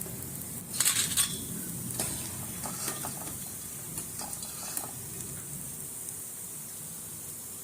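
Murukku dough frying in a pan of hot oil with a steady sizzle, and a few clinks and scrapes of a utensil in the pan. The loudest cluster comes about a second in.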